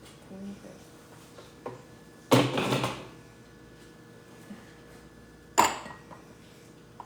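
Kitchen handling noises: a short clatter of dishes or utensils a little over two seconds in, then a single sharp knock later on, with a few light taps between.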